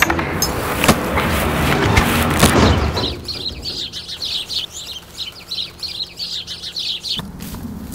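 Several sharp hits over a loud, noisy bed, then small birds chirping in quick, repeated high chirps, about three or four a second, which stop suddenly near the end.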